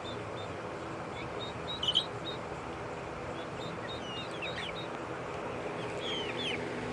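Baby duckling peeping: short, high, downward-sliding peeps in scattered runs, one louder peep about two seconds in, over a steady low hum.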